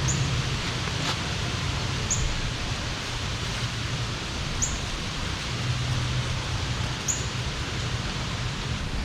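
Outdoor ambience: a steady hiss of background noise with a bird's short high chirp repeated about every two to three seconds.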